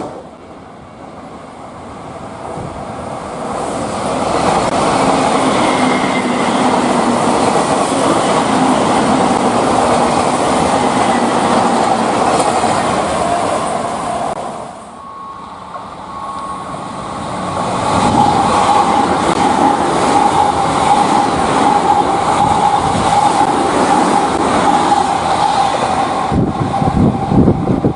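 Electric train running on rails, a steady rumble with a humming motor tone over it. The sound dips sharply about halfway through, then builds up again.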